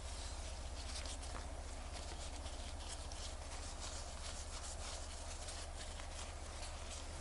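Faint, irregular scratching and rubbing of small hand tools on watch parts, over a steady low electrical hum.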